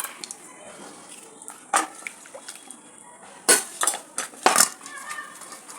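Metal kitchen utensils and a cooking pot clanking, a few sharp strikes, the loudest about three and a half and four and a half seconds in.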